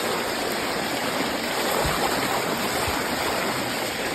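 Bicycle's 29-inch wheels pushing through axle-deep floodwater: a steady rushing wash of churned water.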